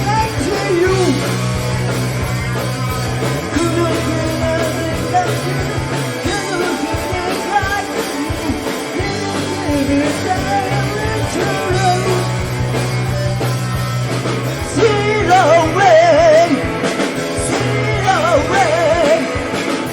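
Live hard rock band playing an uptempo song: distorted electric guitars, bass and drums, with a wavering, vibrato-laden vocal line over sustained bass notes.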